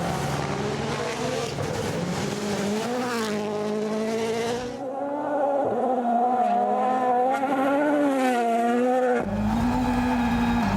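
Rally car engine revving hard, its pitch climbing and dropping again and again as the car accelerates, shifts and lifts. The sound changes abruptly about five seconds in and again about nine seconds in.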